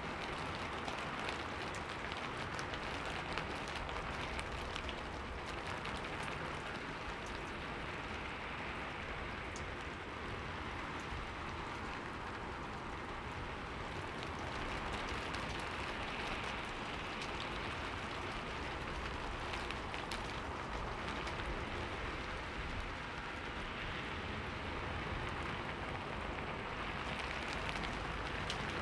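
Steady rain falling on a window pane, a constant hiss with scattered individual drop taps.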